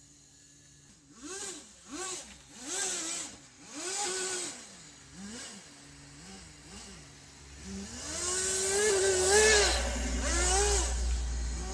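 Kyosho Blizzard nitro RC snow vehicle's small glow engine idling, then revved in four short blips that rise and fall in pitch, followed by a few smaller blips. From about eight seconds in it is held at high revs with a low rumble underneath as the vehicle drives.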